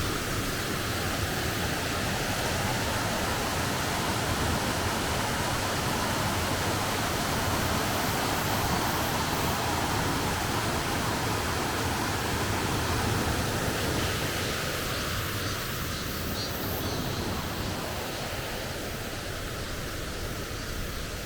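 Steady rushing of running water from a forest stream, easing slightly in the last few seconds.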